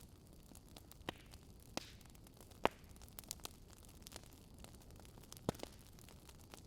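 Campfire burning with soft crackles over a low hiss, scattered with sharper pops, the loudest about two and a half seconds in and again about five and a half seconds in.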